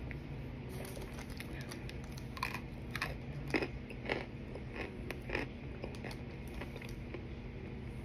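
Someone biting and chewing hard pieces of baked Argo cornstarch mixed with baking powder. About two and a half seconds in comes a run of crisp crunches, roughly two a second, which then thin out to fainter occasional crunches.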